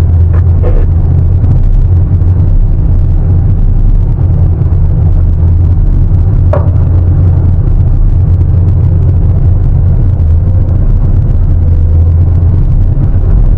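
Sany 750 excavator's large diesel engine running steadily, a loud deep drone. A few short clicks sound near the start, and one brief sharp sound comes about halfway through.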